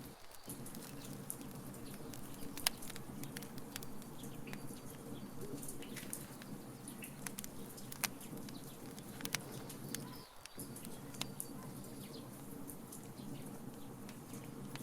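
Wood fire crackling: irregular sharp pops and snaps over a steady low rumble, the loudest pop a little under three seconds in. The low rumble drops out briefly twice, at the start and about ten seconds in, and a few faint short high chirps sound through it.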